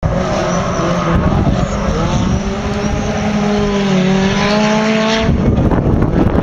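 Rally car engine running at high revs out of sight, its pitch dipping slightly and rising again. About five seconds in, the engine note breaks off into a rough rushing noise.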